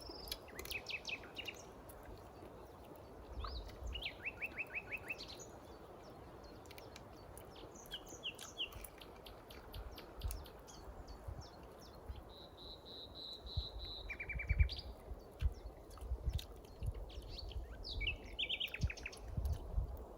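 Wild songbirds singing in woodland: short repeated trills and chirped phrases come every few seconds, including a steady run of even notes in the middle, over a soft background hiss and occasional low rumbling bumps.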